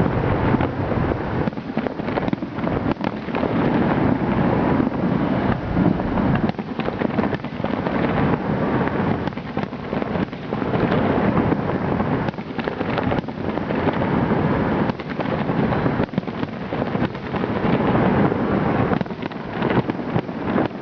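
Large aerial fireworks display: a continuous barrage of many overlapping booming bursts and crackles, with a rumbling low end.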